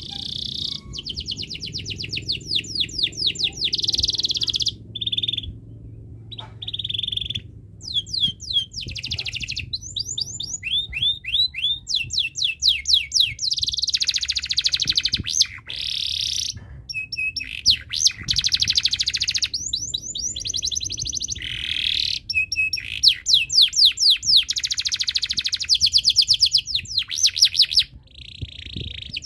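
Domestic canary singing continuously in breeding condition: long phrases of rapid trills and rolling notes, broken by short pauses.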